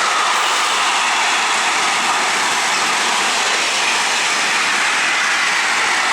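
A train passing at speed: a loud, steady rush of wheels on rail with no pause or change.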